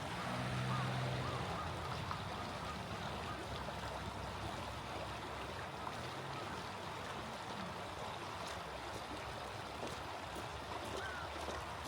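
Small stream flowing with a steady rush and trickle of water.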